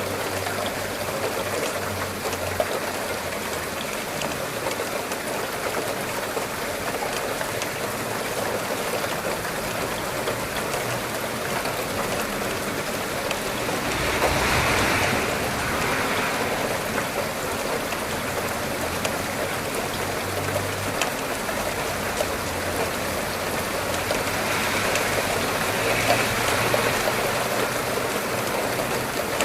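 Steady rain falling, a continuous hiss of drops that swells louder for a couple of seconds about halfway through and again near the end.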